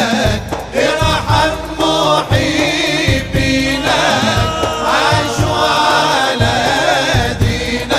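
Arabic nasheed: voices singing a winding melody over a steady drum beat.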